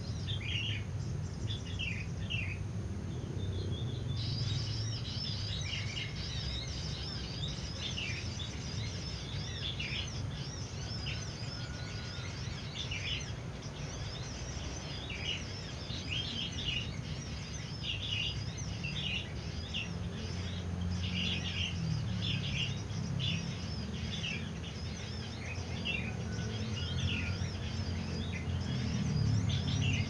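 Small birds chirping in short repeated high notes, with a continuous high trill joining in about four seconds in, over a steady low rumble.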